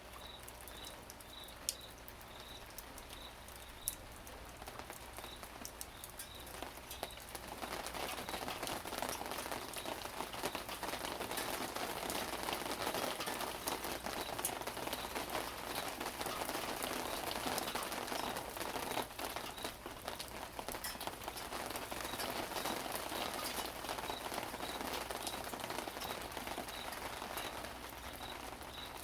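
Rain falling with individual drops ticking. It picks up and grows heavier about seven seconds in. A faint high chirp repeats about twice a second behind it.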